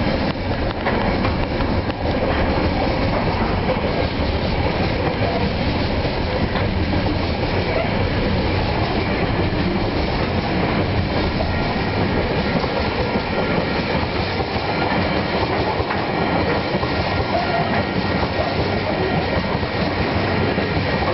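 Container flat wagons of a freight train rolling past, a steady, loud noise of steel wheels running on the rails that goes on without a break.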